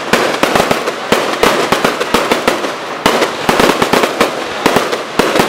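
Fireworks going off in a continuous barrage: many sharp bangs a second, irregularly spaced, over unbroken crackling.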